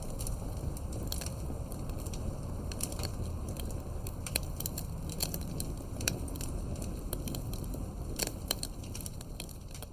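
Wood fire burning: a low, steady rush of flame with frequent irregular crackles and sharp pops from the burning wood.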